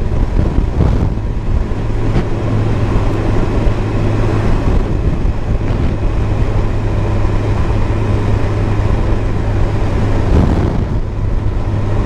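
Yamaha FJ motorcycle cruising at a steady speed, heard from a helmet-mounted camera: a constant low engine drone under steady wind rush over the microphone.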